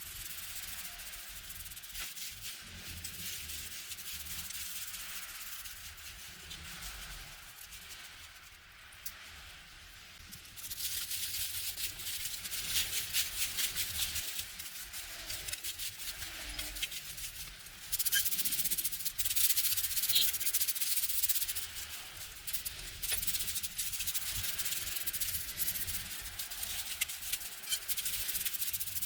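Rubbing and scrubbing against a surface in quick uneven strokes, a dry, hissy scratching that gets louder about ten seconds in.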